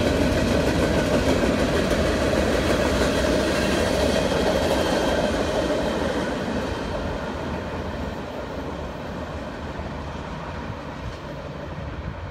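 CSX freight train's boxcars rolling past on the rails. The sound falls away about five to six seconds in as the last car passes, leaving a fainter rumble from the departing train.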